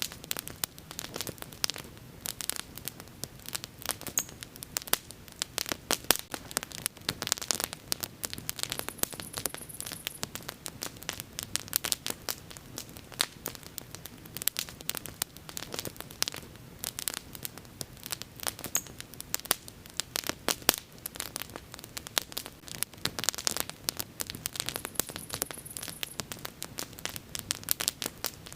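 Wood fire crackling and popping continuously, with irregular sharp snaps over a low steady hiss of the flames.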